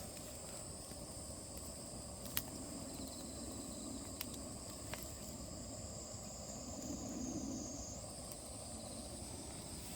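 Insects chirring steadily at a high pitch, with a few sharp clicks; the loudest click comes about two and a half seconds in.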